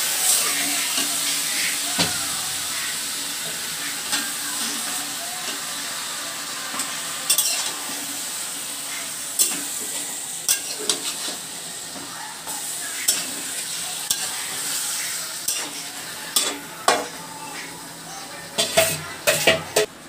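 Chicken pieces with onions and spice paste sizzling in hot oil in a metal kadai while a metal spatula stirs them, clicking and scraping against the pan. The sizzle slowly dies down, and the spatula knocks come thicker near the end.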